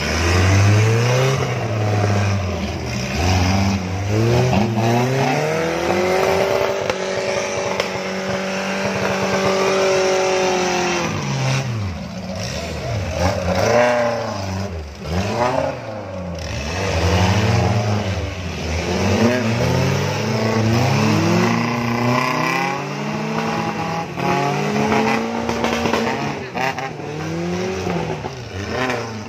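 Off-road 4x4 engines revving hard as they climb a steep muddy trail. The pitch rises and falls again and again, and one stretch is held high for several seconds near the middle.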